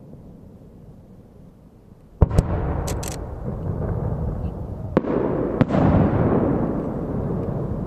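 Aerial firework shells bursting: a sharp double bang about two seconds in with a brief crackle just after, then two more bangs about five seconds in, each trailing off into a long rumble.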